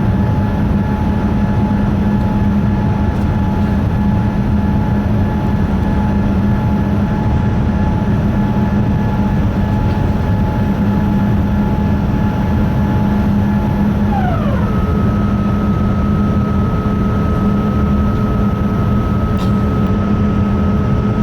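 Jet airliner cabin noise: a steady, loud rumble and hum with a whine that drops in pitch about fourteen seconds in, then holds steady at the lower pitch.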